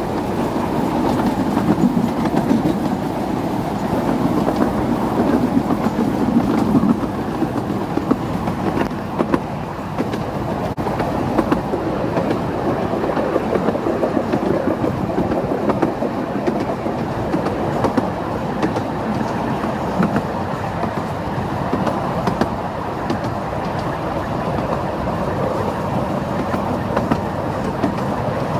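12-inch gauge miniature railway train running, heard from an open passenger carriage: a steady rumble of wheels on rail with frequent clicks over the rail joints.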